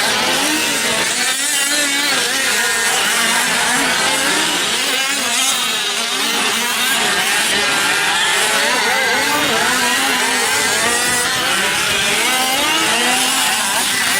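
Several gas-powered 5th-scale RC trucks racing, their small two-stroke engines buzzing and revving up and down together as they accelerate and back off around the track.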